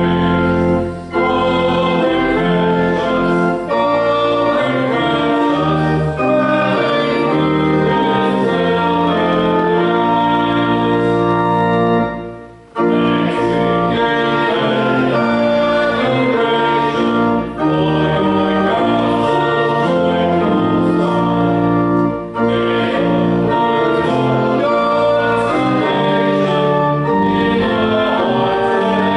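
Church organ playing a hymn with voices singing along. Its held chords change phrase by phrase, with short breaks between phrases and a longer one about twelve seconds in.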